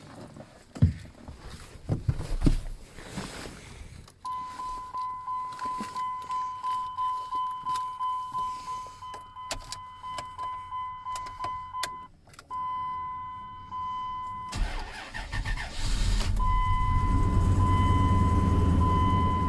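A dashboard warning chime dings about twice a second. About fourteen seconds in, the 2002 Dodge Dakota's 4.7 L V8 cranks briefly on a cold start and catches, then runs steadily with the chime still sounding.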